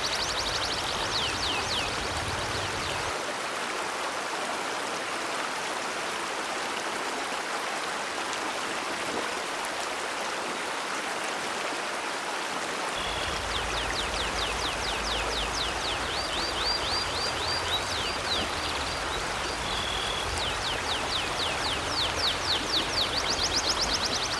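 River water flowing steadily. A bird gives rapid runs of high chirps in the first second or two and again through the second half.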